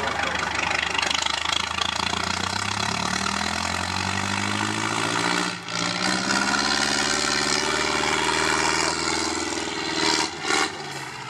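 IFA W50 truck's diesel engine revving hard under load, its pitch climbing over the first few seconds. The sound dips briefly about halfway through, then holds at high revs. It falls off near the end, where there are two short, loud bursts.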